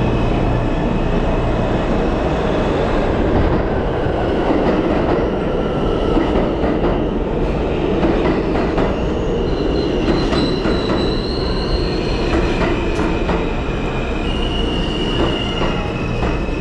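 New York City subway train running at speed, heard from inside the car: a steady rumble of wheels on rail with scattered clicks. From about ten seconds in, the wheels squeal in thin high tones.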